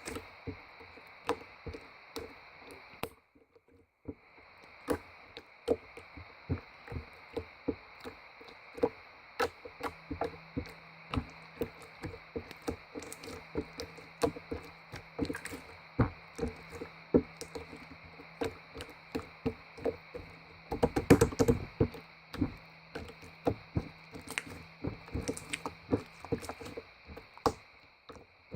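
Irregular series of light knocks or taps, about one or two a second, with a quick flurry of louder knocks about 21 seconds in, over a steady hiss.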